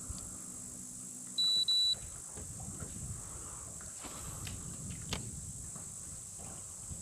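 A short, high electronic double beep about one and a half seconds in, over a steady high buzz of insects in the mangroves. A low hum stops as the beep sounds, and a few faint clicks follow.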